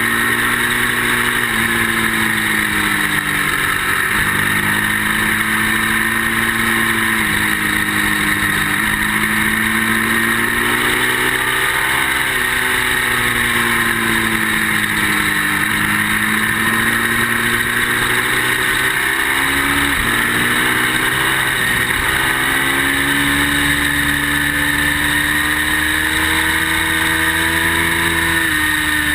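Ducati V-twin motorcycle engine at racing speed. Its pitch climbs repeatedly under acceleration and steps or sweeps back down at gear changes and braking.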